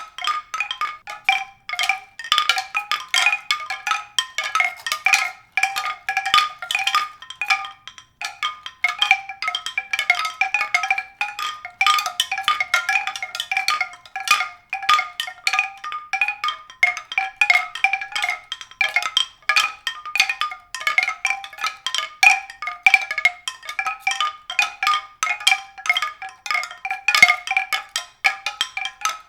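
Tuned mallet percussion playing a quick, unbroken run of bright struck notes, several a second.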